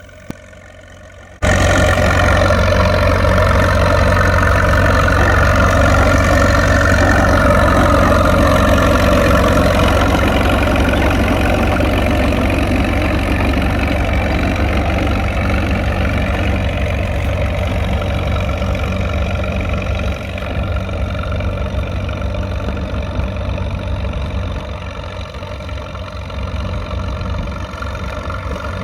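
Caterpillar RD4 crawler tractor's four-cylinder diesel engine pulling a plough uphill under heavy load, a steady loud bark. It comes in abruptly about a second and a half in and eases slightly in the second half.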